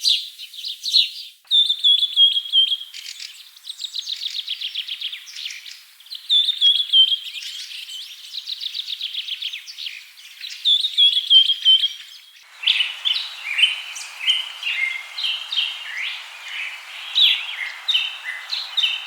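Songbirds singing: high, fast trilled phrases a couple of seconds long, repeated with short gaps. After about twelve seconds it switches abruptly to a busier chorus of many short chirps over a steady hiss.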